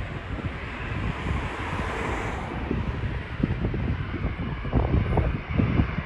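Airbus A380 jet engines at takeoff power, a steady rushing noise that swells about two seconds in and then eases, with strong wind buffeting the microphone that grows heavier near the end.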